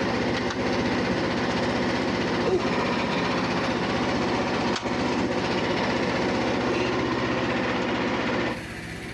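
Frontier OS27 portable band sawmill's engine running steadily with the band blade turning. About eight and a half seconds in, the running drops suddenly to a quieter, lower level.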